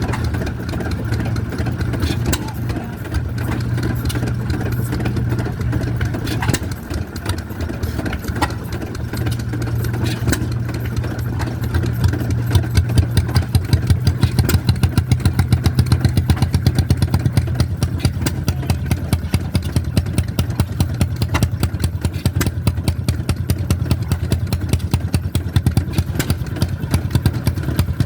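Hit-and-miss stationary gas engines running, with a regular pulsing beat that becomes stronger about halfway through.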